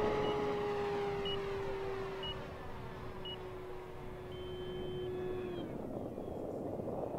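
Electric motor and propeller of an E-flite Fw 190A 1.5m RC warbird in flight, a steady hum drifting slightly down in pitch that stops about five and a half seconds in, leaving a hiss. Four short high beeps about a second apart, then a longer beep, sound over the hum.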